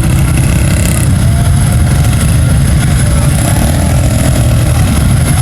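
Mega truck's engine running loud and steady while the truck works through a mud hole, its tires digging.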